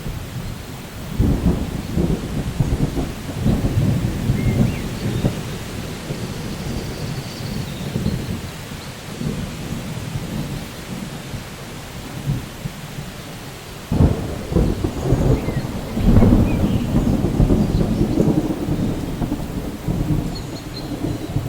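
Steady rain with rolling thunder, which swells in about a second in and again around two-thirds of the way through. A few faint bird chirps sound above it.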